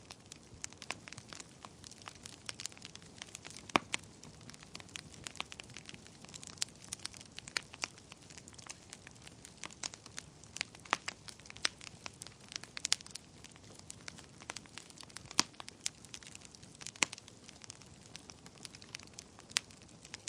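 Wood fire burning in a fireplace: irregular crackles and sharp pops over a faint steady hiss, with a few louder pops.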